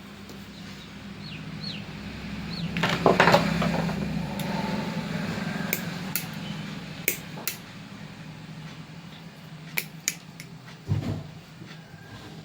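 Small metal parts and tools clinking and knocking against each other as they are handled, with a louder cluster of clatter about three seconds in and a steady low hum underneath.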